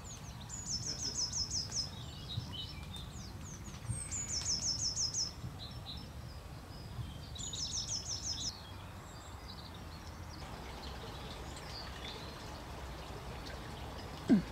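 A small songbird sings a fast trill of high, falling notes about a second long, repeating it three times at intervals of about three seconds, with fainter chirps around it. A low steady rumble runs underneath, and a brief low falling sound comes just before the end.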